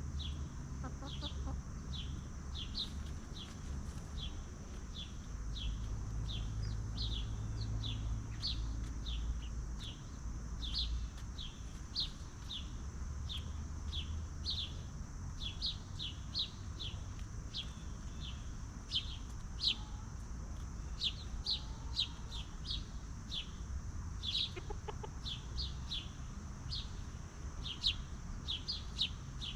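Chickens calling: an unbroken run of short, high peeps, two or three a second, with a few louder ones in the second half, over a steady high hiss and a low rumble.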